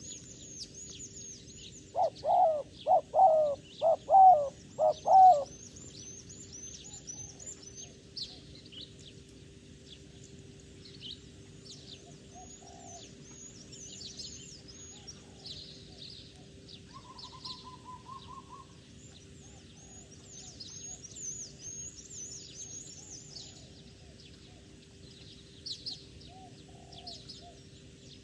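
A dove cooing: a run of about six loud notes a couple of seconds in, over constant high chirping of small birds.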